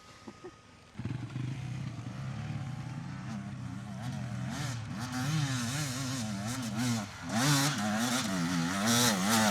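Dirt bike engine coming in about a second in and running with its pitch rising and falling as the throttle is worked, getting louder near the end.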